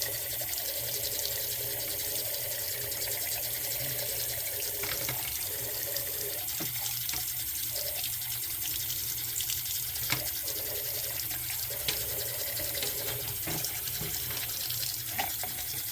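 Faucet running steadily into a sink, with a few light knocks about ten seconds in and later.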